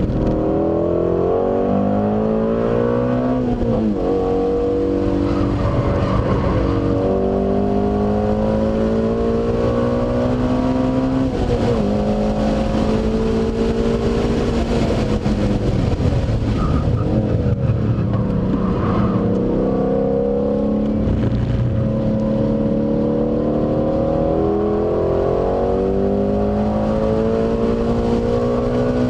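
Car engine heard from inside the cabin under hard acceleration on a race track. Its note climbs and drops back at each upshift, falls away under braking about halfway through, then climbs through the gears again.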